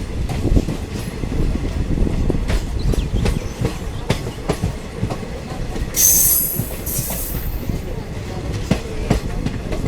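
Diesel multiple unit train running, a steady low rumble with irregular clicks of the wheels over the rails. About six seconds in, a high-pitched wheel squeal lasts about a second and a half.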